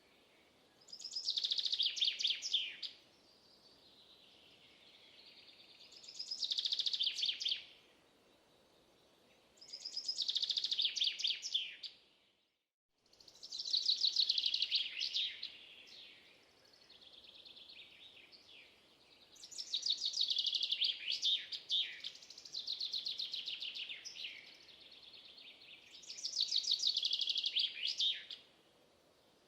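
A songbird singing, repeating a fast trilled phrase about two seconds long every few seconds, six or so times, with fainter song between. The sound drops out completely for a moment about halfway through.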